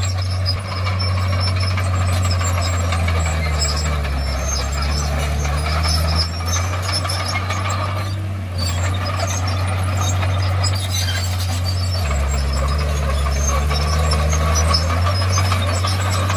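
Komatsu D51PX crawler bulldozer's diesel engine running hard. The engine note drops twice, about four seconds in and again about twelve seconds in, as the engine pulls down. Faint squeaks and clinks run over the drone.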